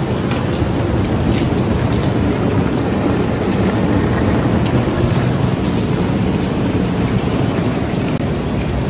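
Heavy rain pouring down steadily, a loud even hiss with a deep rumble underneath and scattered drops ticking on glass panes.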